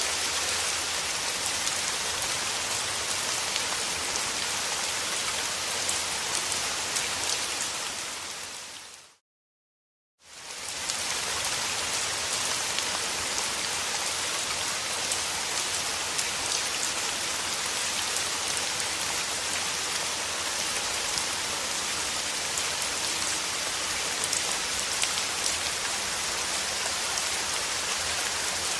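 Steady rain with a dense patter of drops. About eight seconds in it fades out to a second of complete silence, then fades back in.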